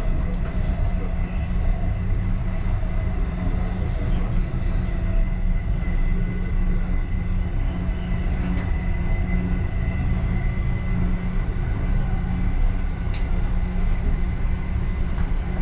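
Passenger railway car running, heard from inside the last car: a steady deep rumble of wheels and running gear, with a faint steady high whine.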